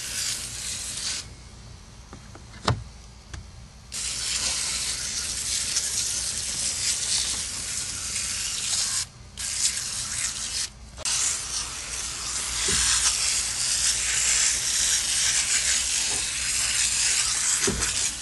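Aerosol can of Nu-Calgon CalSpray Evap Fresh no-rinse coil cleaner spraying onto an evaporator coil, a hiss in long bursts. A short spray at the start, a pause of a few seconds with one click, then sprays of about five seconds, a second and a half and seven seconds with brief breaks between.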